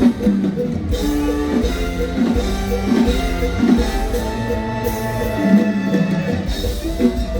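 Mor lam band music: plucked string lines over a steady bass and drum beat.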